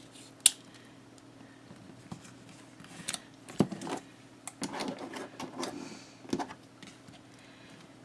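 Light clicks, taps and paper rustles as cut paper pieces are handled and pressed onto a paper folio album on a table. They come scattered, with a busier stretch a little past halfway, over a faint steady hum.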